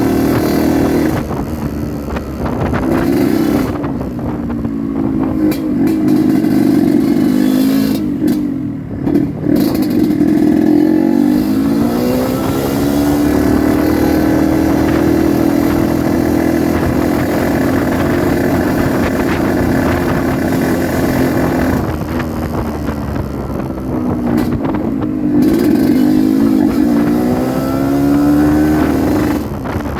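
Yamaha RX-King 135cc two-stroke single-cylinder motorcycle running on the move, its engine pitch rising and falling again and again with throttle and gear changes.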